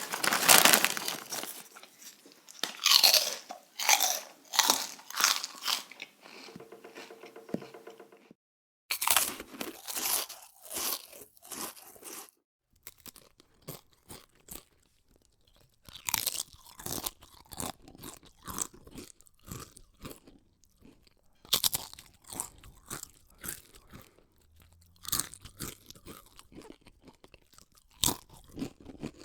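A person biting and chewing crunchy snacks close to the microphone, in bursts of sharp crackling crunches. It comes as a string of separate recordings, broken by brief silences at about eight and twelve seconds.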